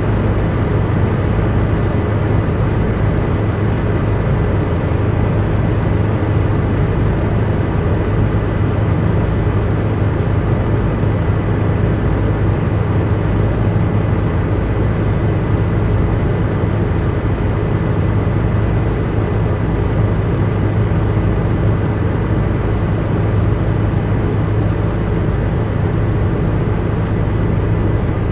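Helicopter cabin noise: the engine and rotor drone steadily, with a strong low hum and a thin, steady high whine over it.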